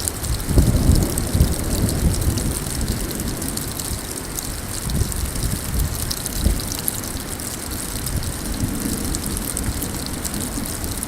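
Hail and rain coming down hard, a dense patter of small stones striking, with irregular low rumbling surges that are loudest in the first two seconds.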